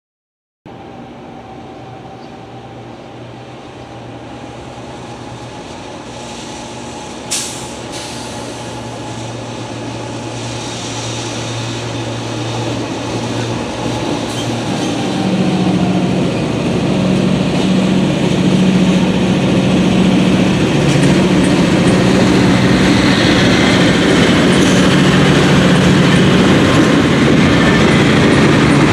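Freight train led by diesel locomotives approaching, the engine drone and rail noise growing steadily louder throughout. A single sharp click about seven seconds in.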